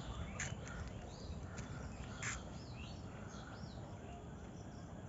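Several birds chirping and calling, with short rising and falling chirps. Two brief harsh calls stand out, one just after the start and one about two seconds in, over a steady low rumble.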